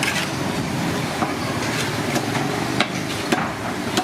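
Busy street-side din with irregular sharp knocks and clacks every half second or so.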